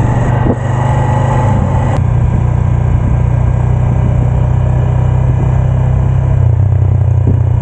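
Bajaj Pulsar 150's single-cylinder four-stroke engine running steadily as the motorcycle rides along, heard close to the exhaust.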